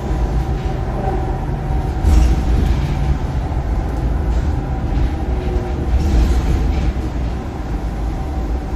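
Scania K230UB bus running on the road, its Scania DC9 engine and ZF Ecomat automatic gearbox giving a steady low rumble with a faint whine. It surges and rattles louder about two seconds in and again about six seconds in.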